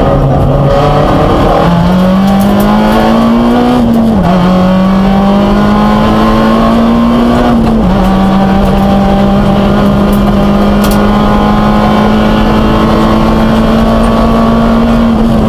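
Peugeot 106 N2 rally car's engine at full throttle, heard from inside the cabin. The revs climb and drop sharply at upshifts about four and eight seconds in, then hold high and steady through the rest.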